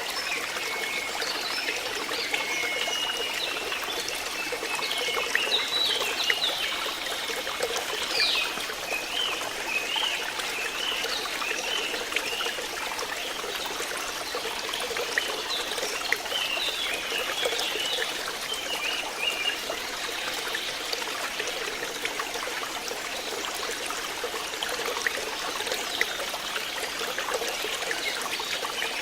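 Flowing water trickling and babbling steadily, with short high chirping calls over it during roughly the first two-thirds.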